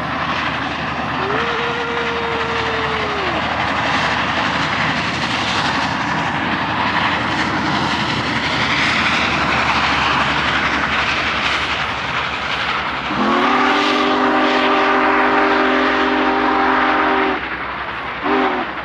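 Union Pacific Big Boy 4014 steam locomotive passing close by with a heavy, loud running rumble. It whistles: a short single-tone blast about a second in, a long many-toned blast from about 13 seconds that lasts about four seconds, and a brief toot near the end.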